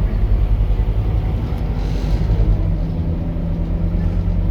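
Scania K230UB bus's five-cylinder diesel engine running steadily while the bus is under way, a low drone, with a brief faint hiss about two seconds in.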